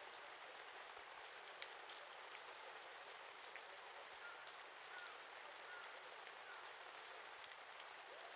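Wood fire crackling: scattered sharp pops and ticks over a soft hiss, with a few louder snaps near the end.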